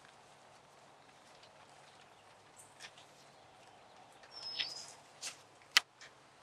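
Faint steady background hiss with a bird's single short whistled call about four and a half seconds in. A few soft clicks, and one sharp click near the end that is the loudest sound.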